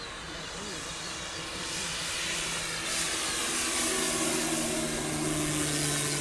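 Electric-powered radio-controlled model plane flying overhead: the brushless motor and propeller make a steady hum with a hissing whine, growing louder from about two seconds in as it comes closer.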